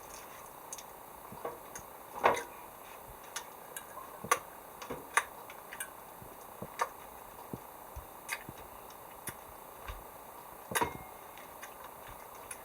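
Irregular sharp clicks and pops, about fifteen of them, a few louder than the rest, over a faint steady background.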